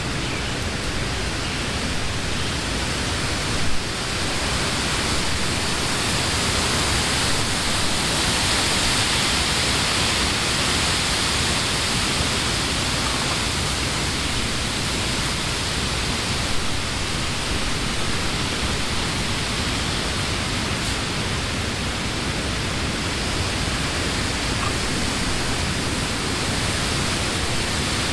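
Summer wind blowing through leafy trees: a steady rustling hiss of leaves that swells in a stronger gust a few seconds in, with a couple of brief taps.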